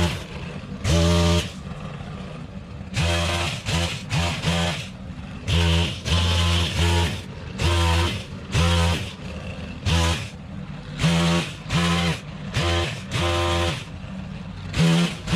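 Stihl KM-131R Kombi power head's 4-MIX engine driving an HRT-KM pole-pruner chainsaw attachment, the throttle opened in short bursts about a second apart and dropping back to idle between them.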